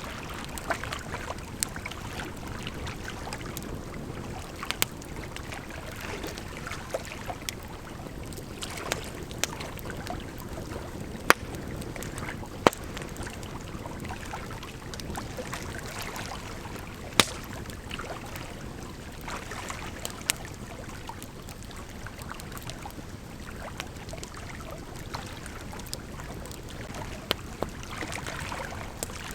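Campfire crackling with scattered sharp pops, over the steady rush of a gently flowing river.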